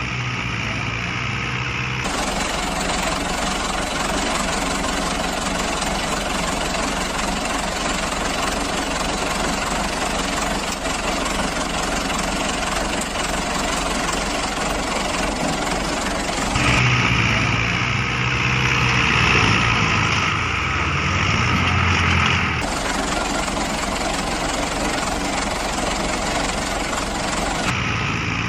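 Heavy vehicle engines running steadily, in several clips spliced together, so that the engine sound changes abruptly a few times.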